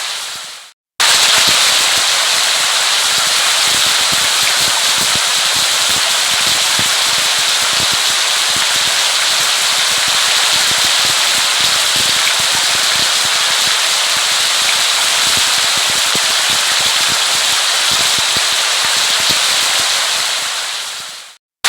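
Steady rain, a dense patter of countless drops. It fades to silence within the first second and cuts back in abruptly, then fades out again near the end, as where a recording loops.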